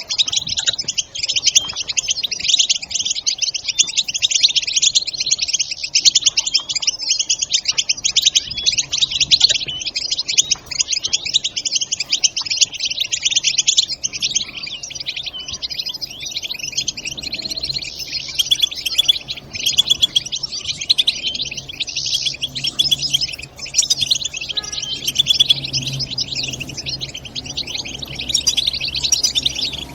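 European goldfinch chattering: fast, continuous twittering and trilling calls with no pause.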